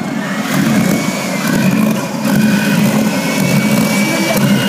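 Homemade jet engine running: a loud, rough rushing noise that swells and dips, with a thin high whine drifting slowly up and down in pitch.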